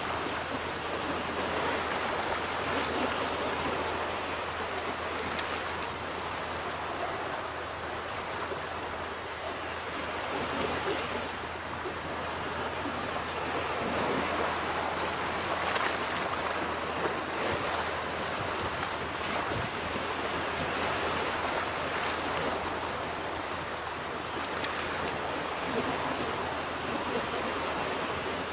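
Ocean surf washing onto a beach: a continuous hiss of breaking waves that swells and eases every few seconds.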